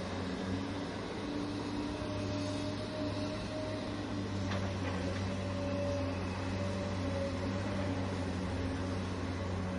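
Electric motors of a remote-control toy excavator running with a steady whirring hum whose pitch wavers slightly, with a faint click about halfway through.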